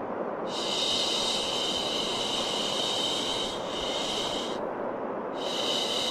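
Shushing 'shhh' sounds for soothing a baby, repeated long hushes with short breaks between, over a steady bed of white noise. A long hush starts about half a second in and runs into a shorter one, and another begins near the end.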